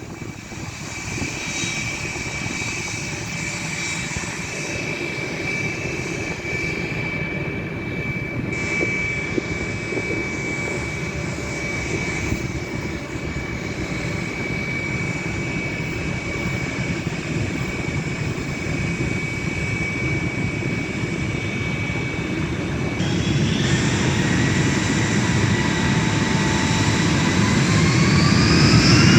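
Airbus A320 jet engines running with a steady high whine over a rumble. About 23 seconds in the sound changes, and near the end the whine rises in pitch and grows louder.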